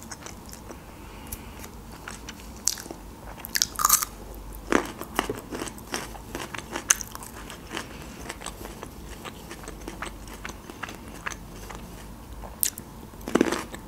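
Close-miked crunching bites and chewing of canned garlic cloves, a series of crisp clicks with a few louder bites about four, five and thirteen seconds in.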